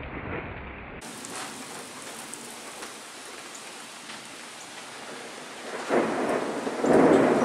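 Steady rain falling, then a loud peal of thunder that swells from about six seconds in and is loudest near the end.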